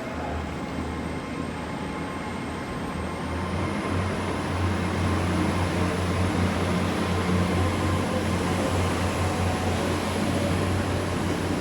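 Double-set Great Western Railway Class 802 IET bi-mode train pulling out, its underfloor diesel engines running with a steady low hum that grows a little louder about four seconds in as it gathers speed. A thin high whine climbs in pitch at the same moment and then holds steady.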